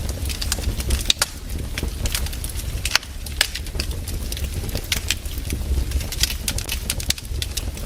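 Burning firewood crackling, with irregular sharp pops several times a second over a low steady rumble.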